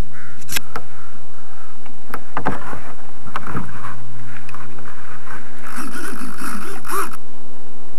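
Clicks and rustling handling noise on a small video camera, over a steady low hum.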